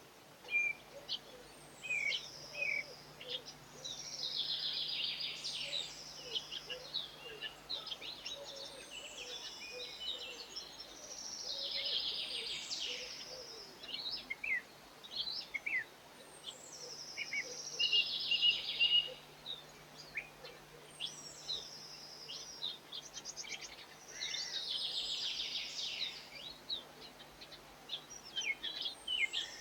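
Garden songbirds singing: one bird repeats a short, dense trilled song phrase about every six or seven seconds, with scattered short chirps from other birds in between.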